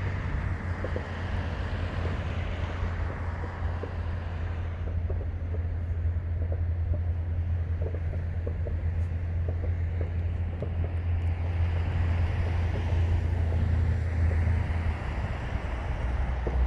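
Steady low rumble of wind buffeting the microphone and road traffic, with many faint, short ticks scattered throughout.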